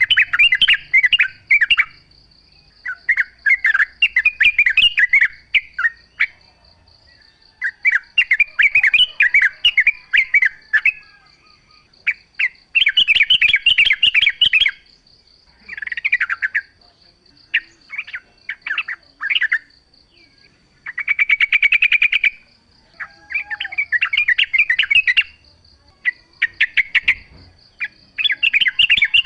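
Yellow-vented bulbul (trucukan) singing: bubbly, chattering phrases of one to two seconds repeated every few seconds, one of them a fast rattling run of notes. A faint steady high-pitched whine runs underneath.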